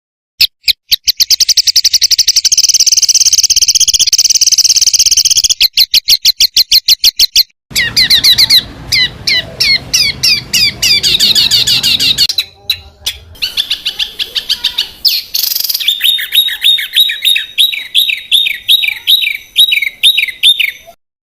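Small songbirds calling in fast, dense runs of sharp repeated high notes. Several different phrases are spliced one after another with abrupt silent breaks. They start with a rapid trill and end with down-slurred chirps at about two or three a second. These are the harsh, rapid 'tembakan' calls of a songbird training recording.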